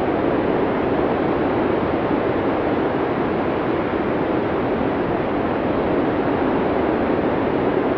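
Blizzard wind sound effect: a steady, dense rush of storm wind with no gusts or breaks.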